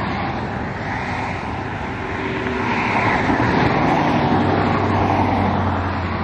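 Road traffic noise: a steady wash of passing vehicles and tyre hiss that swells and eases over a few seconds.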